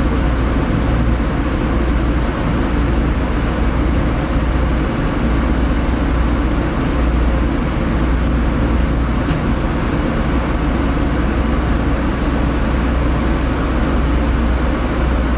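Jiji Line diesel railcar running, heard from inside the train: a steady, deep rumble of engine and wheels on the rails.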